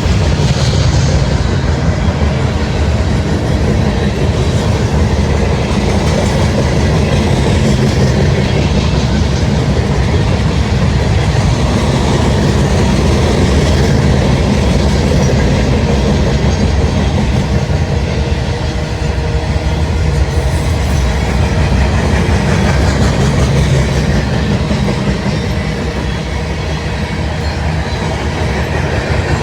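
A train rolling past: a steady, loud rumble of wheels on the rails with clickety-clack over the rail joints.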